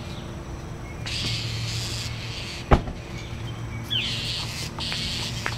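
Birds calling: spells of harsh, raspy high-pitched notes, one starting with a quick falling note, with a single sharp knock about halfway through.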